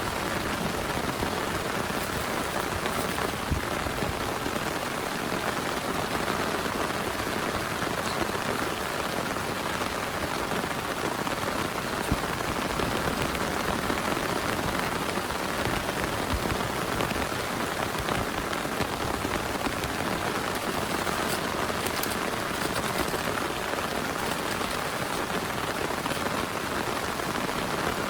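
Heavy rain pouring steadily, with a few sharper drop hits standing out now and then.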